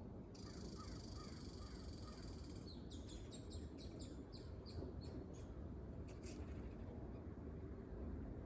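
A small bird calling: a high buzzy trill lasting about two seconds, then a quick run of short chirps, and two sharp high notes a little later.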